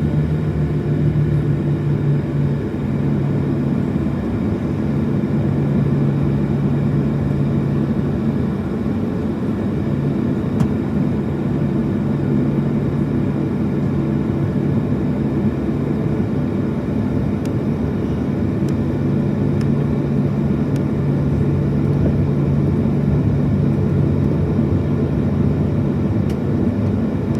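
Cabin noise inside a Boeing 737-700 with its CFM56 engines running: a steady rumble with a low hum that fades in and out.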